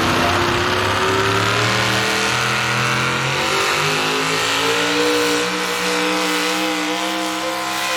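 Modified small-block V8 pulling truck's engine running hard, its pitch climbing slowly and steadily without a break, as in a truck working up speed under load on a pull.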